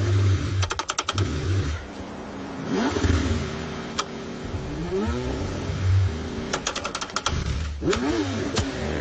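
Car engine cranking over in freezing cold, struggling to start: an uneven low churning with two bursts of rapid clicking and short rises and falls in pitch.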